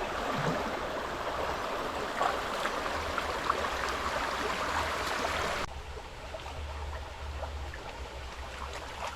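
A stream running with a steady rush of water. Its level drops abruptly a little past halfway and the water carries on more quietly.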